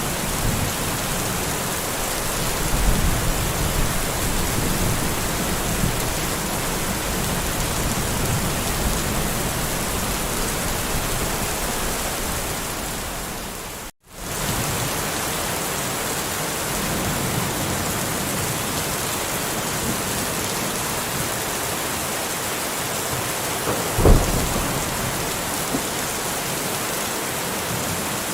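Steady heavy rain with low thunder rumbling through the first half. The sound cuts out for an instant about halfway, then the rain carries on, with one short sharp thump about two-thirds of the way through.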